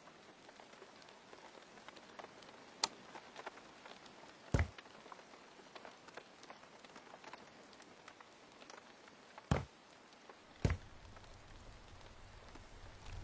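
Faint steady hiss with a few sharp, separate taps and knocks spread across it; a low hum sets in after a knock about three quarters of the way through.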